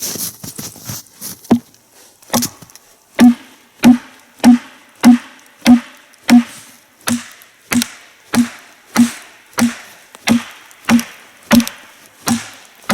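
Wooden wedges being driven into a crack in a log with repeated blows to split it. After a few lighter knocks, the strikes come steadily, about three every two seconds, each with a short low ring.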